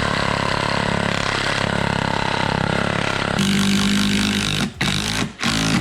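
A motor vehicle engine running loudly, cutting in abruptly, its sound shifting about three and a half seconds in.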